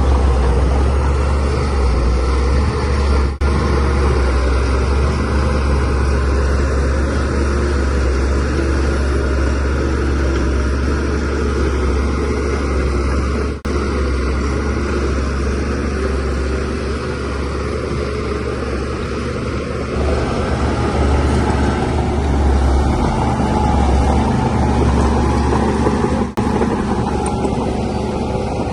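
DH17C3 bulldozer's diesel engine running steadily under load with a deep, constant drone. The sound drops out for an instant three times.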